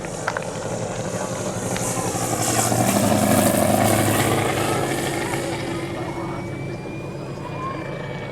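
Valach R5-420 five-cylinder radial engine of a large scale model plane running in flight, growing louder to a peak about three seconds in and then fading as the plane passes.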